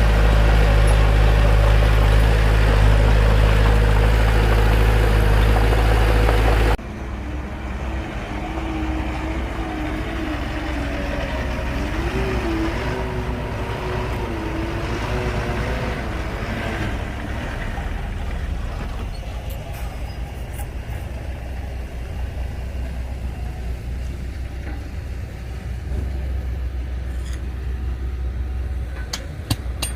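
Bulldozer's diesel engine running steadily and loud, cutting abruptly about a quarter of the way in to a quieter engine sound with a wavering whine for several seconds, and a few sharp metallic clinks near the end.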